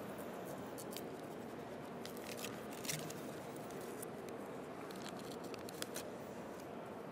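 Scattered camera shutter clicks, irregular single and double clicks over the steady hum of a large hall.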